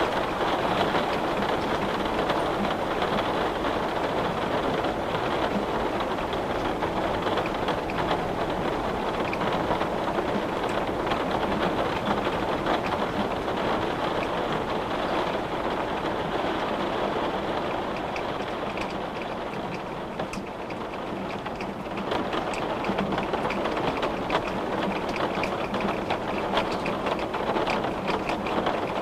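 Steady rain falling on a window, with single drops ticking more clearly in the second half. The rain eases briefly about two-thirds of the way through.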